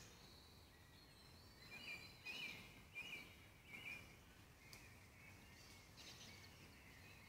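Faint songbird song: a few short chirping phrases, bunched together a couple of seconds in, over a quiet steady hiss.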